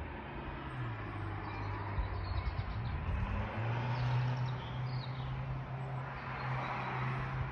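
A motor vehicle's engine running close by as a steady low hum that rises in pitch twice, with faint bird chirps above it.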